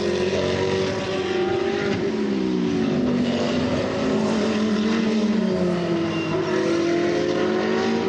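GT3 race car engines running at speed on track, their notes sliding down in pitch and rising again, with more than one car's note overlapping around the middle.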